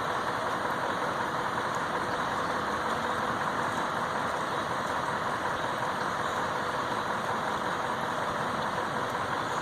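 Steady rush of flash-flood water over rapids, with a faint steady engine hum of an idling vehicle beneath it.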